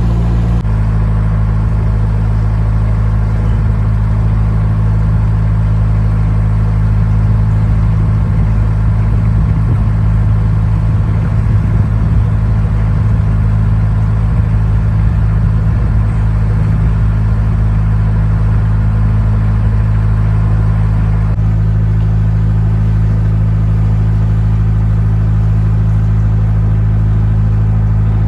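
Narrowboat's diesel engine running steadily under way, a low, even hum; its note shifts slightly about twenty seconds in.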